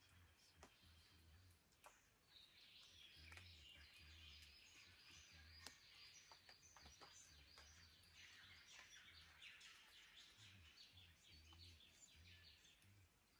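Faint dawn birdsong of Australian forest birds: a dense run of high chirping and twittering starts about two seconds in and fades near the end, with a few sharp clicks scattered through it.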